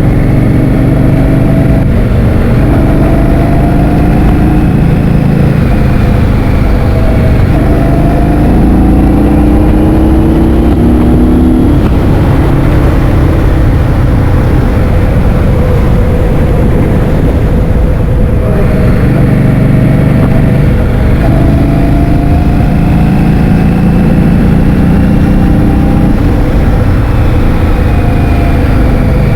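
Loud wind buffeting on the microphone while riding, with a vehicle engine underneath whose pitch rises and falls as it speeds up and slows. The engine tone fades out about twelve seconds in, leaving mostly wind, and comes back about six seconds later.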